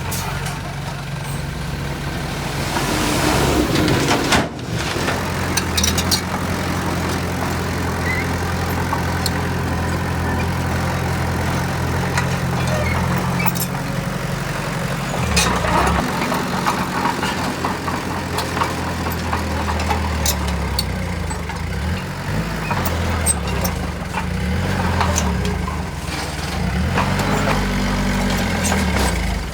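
Heavy diesel engine of construction machinery running steadily at low revs, with a hiss of air about three seconds in that cuts off sharply and a few scattered knocks.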